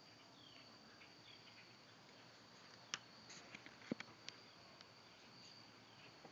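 Quiet outdoor ambience: a steady, high-pitched insect trill, with a few faint short chirps and several sharp clicks about three to four seconds in.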